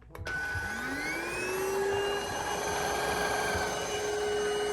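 Onson cordless vacuum cleaner switched on: its motor spins up with a rising whine over about a second and a half, then runs steadily with a hiss of suction.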